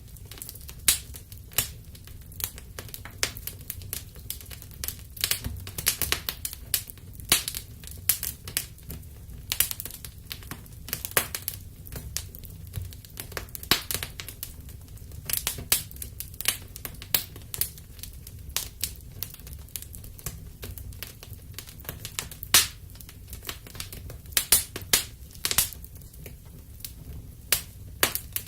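Wood fire burning in a fireplace: irregular sharp crackles and pops, several a second at times, over a soft low rumble.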